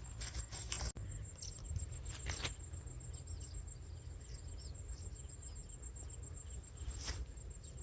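A steady, high, pulsing insect trill, like a cricket, over a low rumble, with a few sharp clicks.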